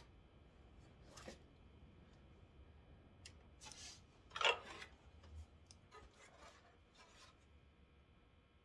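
Light scrapes, rubs and clicks of parts being handled during headlight assembly work, with the loudest a short rasping scrape about four and a half seconds in.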